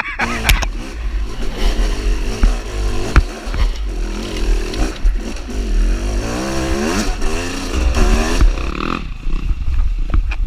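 Dirt bike engine running and revving up and down several times, the pitch rising and falling most plainly in the second half.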